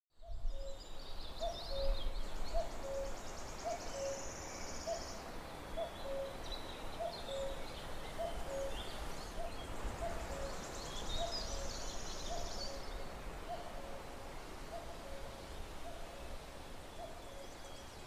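Birds calling: a short, low hooting call repeats steadily about every two-thirds of a second, while higher chirps and trills come and go over it. A low rumble runs underneath.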